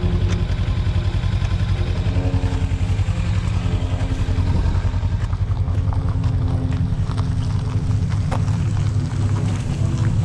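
Kawasaki Ninja 300's parallel-twin motorcycle engine running steadily close to the microphone, a fast even pulsing, with a few light clicks in the second half.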